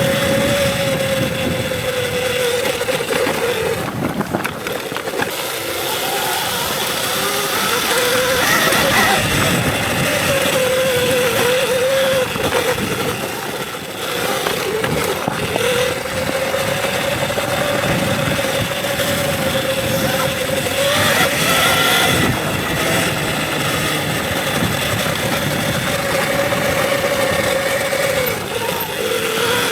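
Electric dirt bike riding on a trail: the motor's whine holds a steady pitch, dropping and coming back up a few times as the throttle is eased off and reapplied, over a constant rush of noise.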